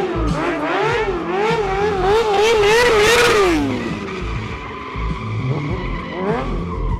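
Stunt motorcycle engine revved up and down in quick blips, its pitch swinging about twice a second and climbing, then dropping away about three and a half seconds in. A hiss of tyre skidding is heard at the peak.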